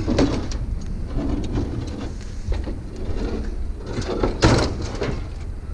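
Scraping and knocking as a heavy car trunk lid is lifted and shifted by hand, with one loud knock about four and a half seconds in, over a steady low rumble.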